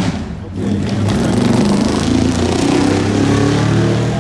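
A motor vehicle's engine running loudly nearby, a steady low hum with noise over it.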